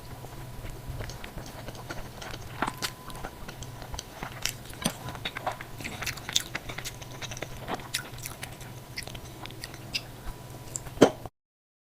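A person eating close to the microphone: chewing and biting with many sharp wet mouth clicks. A loud click comes near the end, then the sound cuts off suddenly.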